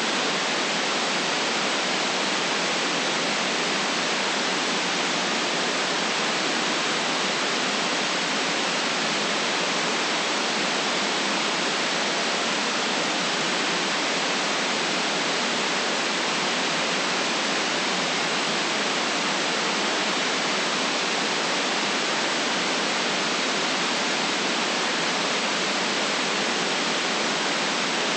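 Steady, unchanging synthetic white noise: an even hiss with no bass, no breaks and no events.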